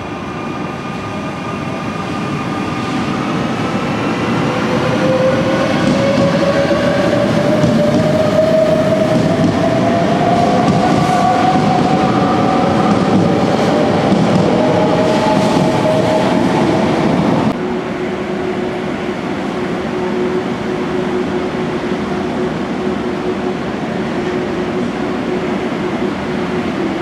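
Regional train running along an underground station platform: wheel and rail rumble with a motor whine that rises steadily in pitch. About two-thirds in, this cuts off abruptly to a quieter, steady station hum with a low held tone.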